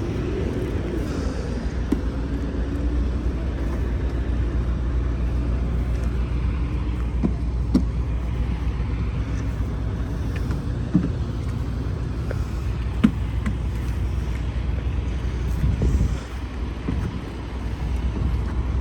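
A semi truck's diesel engine running steadily with a low rumble, with a few short sharp clicks.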